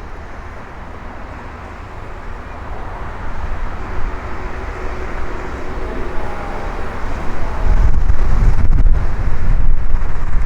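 Airbus A380 jet engines growing louder as the airliner approaches, with a faint shifting whine in the middle, then a loud low rumble over the last couple of seconds. Strong gusting wind buffets the microphone.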